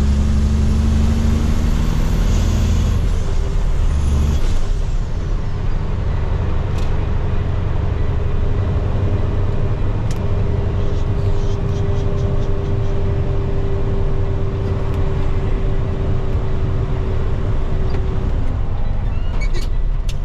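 Heavy diesel truck engine and road noise heard from inside the cab, a steady low rumble with a faint steady tone; the deepest part of the rumble drops off about four and a half seconds in.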